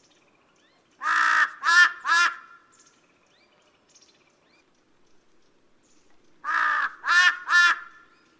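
Large-billed crow calling: two bouts of loud, hoarse caws a little over five seconds apart, each a longer call followed by two shorter ones.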